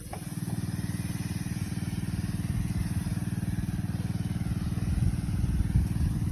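Small engine running steadily with a low, rapid putter, growing slightly louder toward the end.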